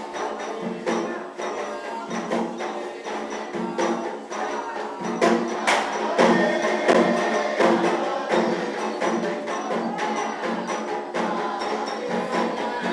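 Afro-Brazilian ritual music for Xangô: drums and other percussion struck in a steady, dense rhythm, with pitched voices or instruments carrying a melody over them.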